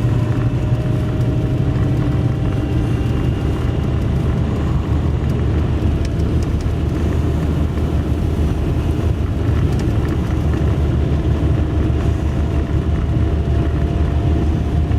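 Small four-wheel-drive vehicle's engine running steadily: a low, even drone with a faint steady whine above it.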